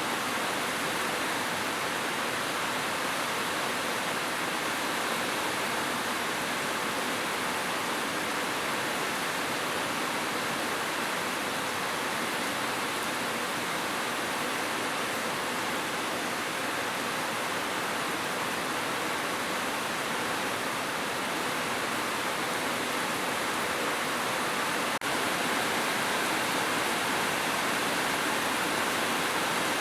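Heavy rain falling steadily on a roof, a dense, even hiss with no thunder.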